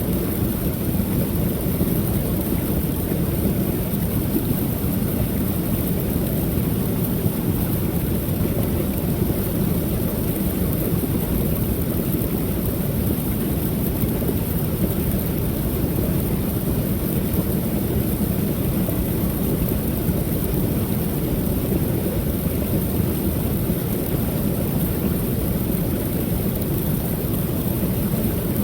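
Water pouring steadily over a small creek waterfall: a constant rush with a deep rumble.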